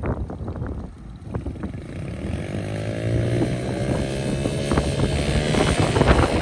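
Pit bike engine revving up, rising in pitch from about two and a half seconds in and running on, with wind buffeting the microphone.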